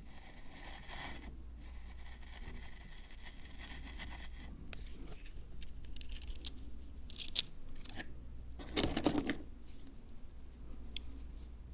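Hands at work on a miniature Zen garden diorama: a soft scraping hiss for the first few seconds, then scattered small clicks and taps, and one louder rustle a little before nine seconds in, over a low steady hum.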